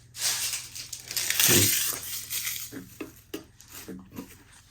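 Dry leaf litter rustling and crackling as it is handled and dropped into a tarantula enclosure, in a few bursts with the loudest one about a second and a half in, followed by scattered small crackles and clicks.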